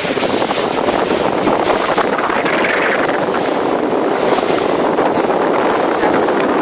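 Motorboat under way: a steady, loud rush of water and engine noise, with wind buffeting the microphone.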